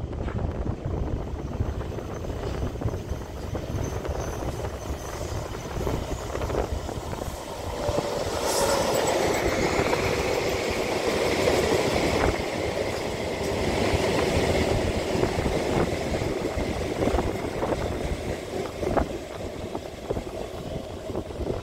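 A Taipei Metro electric train running past, with rail and wheel rumble and an inverter-driven traction motor whine that builds about a third of the way in and slides down in pitch through the middle.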